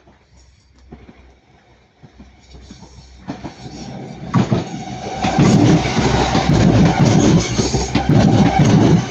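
A Northern class 195 diesel multiple unit approaches and passes close by, its wheels clattering rapidly over the rail joints. A steady whine runs over the clatter. It grows from faint to loud about four to five seconds in.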